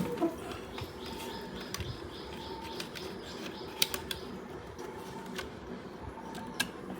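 A few sharp clicks and small knocks of a mixer grinder's housing and parts being handled as its cover is taken off during disassembly.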